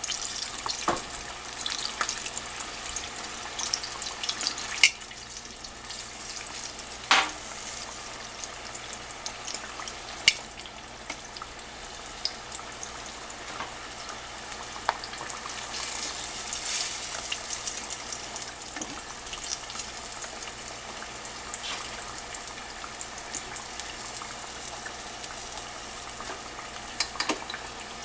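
Flour-coated chicken pieces frying in a pan of hot grease, a steady sizzle, with a few sharp clicks about 5, 7 and 10 seconds in.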